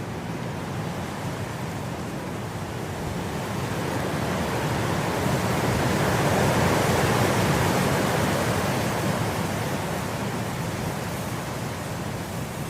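Wind blowing through grass, a steady rushing that swells into a gust around the middle and eases off again.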